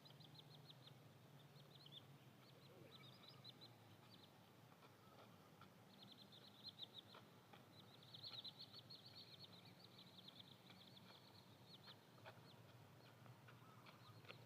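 Small birds chirping in quick runs of short, high notes, busiest in the middle, over a faint low hum.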